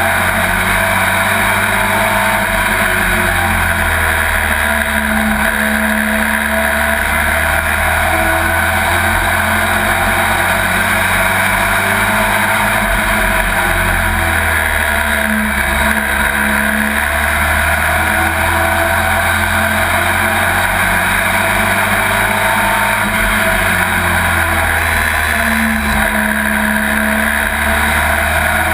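Pro Truck race truck's engine running hard, heard from inside the cab. Its note swells and eases in a slow repeating cycle, about three times over.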